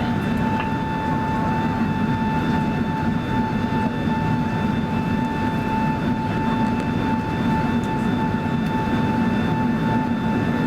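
Airbus A380 cabin noise during the climb, heard from inside the passenger cabin: a steady rush of engine and airflow noise with a constant whine riding on top.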